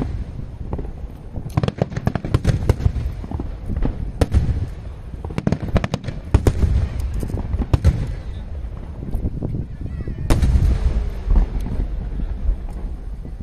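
Aerial fireworks shells bursting in rapid volleys of sharp bangs over a low rumble of booms, with the heaviest burst about ten seconds in.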